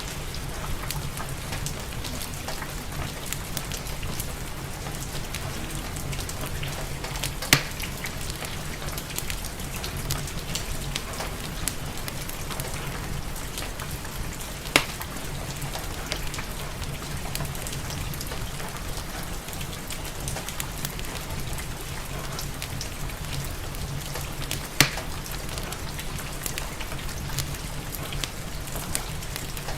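Steady rain with a wood fire crackling, small ticks throughout. Three sharp pops stand out, about a quarter, halfway and five-sixths of the way through.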